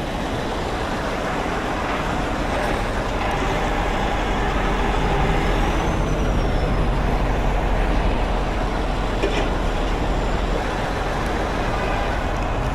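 Heavy truck's diesel engine running steadily, a little louder toward the middle.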